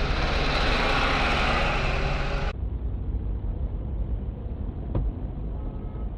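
Car driving noise, a steady rumble of engine and road with hiss. About two and a half seconds in it cuts abruptly to a duller recording of the same kind of low rumble, with one short click near the end.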